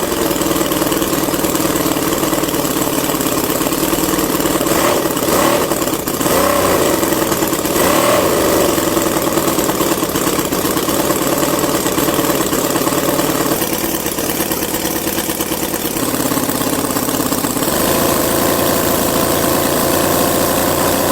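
Miniature diesel engine running steadily, its speed rising and falling briefly a few times.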